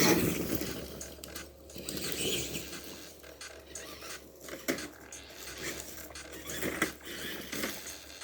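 Tamiya TXT-2 RC monster truck crawling over rough ground: its small electric motor runs in short, irregular bursts while the tyres and chassis scrabble over dirt and rocks, loudest right at the start.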